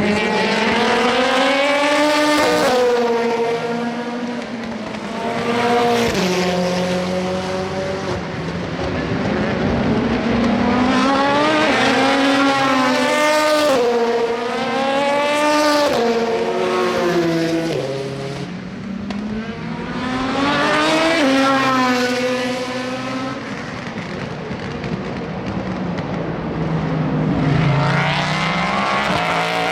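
Endurance race cars (prototypes and GT cars) passing one after another through a slow corner, with no pause between them. Each engine's pitch steps down as the car brakes and downshifts, then climbs again as it accelerates away.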